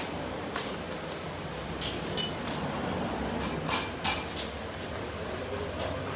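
Metal tools and suspension parts clinking and knocking during car suspension work, with one sharp ringing metallic clang about two seconds in.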